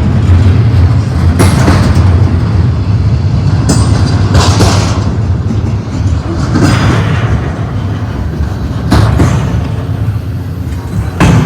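Double-stack intermodal freight train rolling past, a steady low rumble with a swell of clattering noise about every two seconds as the cars go by.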